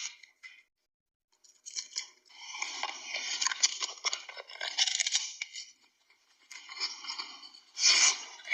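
Dogs chewing and crunching raw food, a run of quick crackling bites and tearing, with a pause of about a second partway through.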